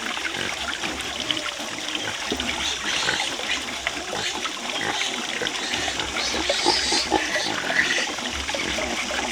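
Pigs making sounds over a continuous sloshing and trickling of water, with many small clicks and knocks.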